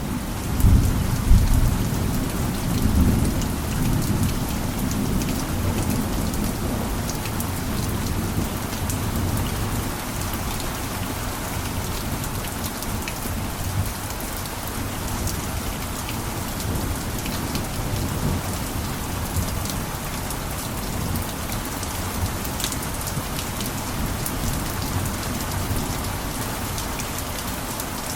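Steady heavy rain with individual drops ticking sharply through it. In the first few seconds a low rumble of thunder sits under the rain and then fades out.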